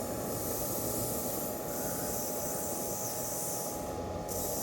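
Negative ion generator running, with a steady fan-like hum and hiss. Over it a high, sizzling hiss of high-voltage static discharge drops out near the start and for a moment about four seconds in, then comes back each time, as a hand is held near the emitter.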